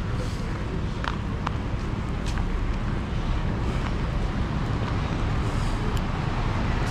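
Rain falling and dripping from a walkway cover: a steady wash of noise under a low rumble, with a few sharp drip ticks.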